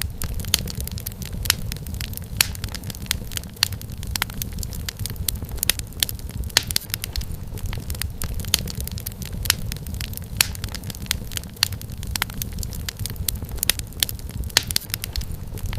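Wood fire crackling: frequent sharp irregular pops and snaps over a steady low rumble of the flames.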